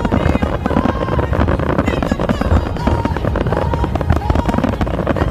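Fireworks barrage: many shells and ground effects bursting in quick succession, a continuous run of overlapping bangs and crackle with no pause.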